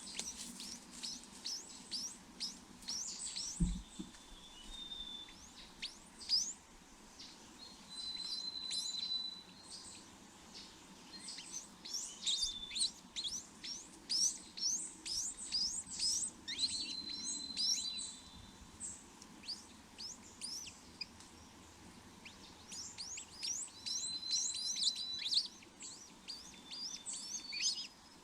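Small birds chirping: clusters of quick, high, downward-sweeping chirps with a few held whistled notes about a second long, repeated throughout. A single low thump about four seconds in.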